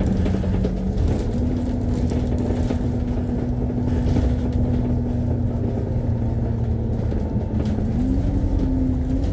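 Double-decker bus's engine and drivetrain running, heard from on board while the bus drives: a steady low rumble with a whine that steps up in pitch about a second in, dips briefly near seven seconds, then climbs again near the end.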